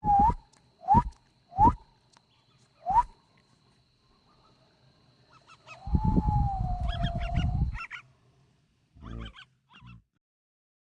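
A person whistling to call a tame bird: four short rising whistles, then one long wavering whistle with breath noise, followed by a few faint short chirps.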